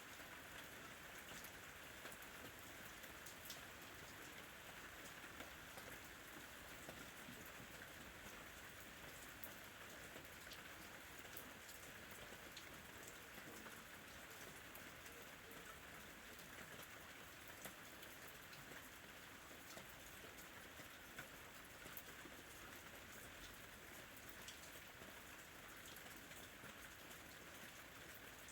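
Faint, steady ambient rain falling, with scattered drop ticks.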